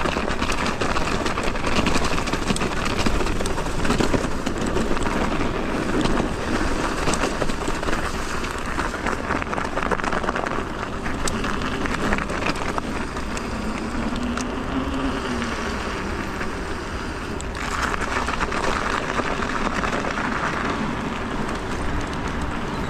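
Electric mountain bike ridden along a rough trail: a steady rush of tyre and wind noise with quick clicks and rattles from the bike.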